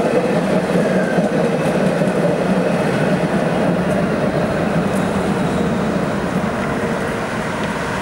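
Dubai Tram running on its rails: a steady rolling rumble with faint high tones and light ticks over it.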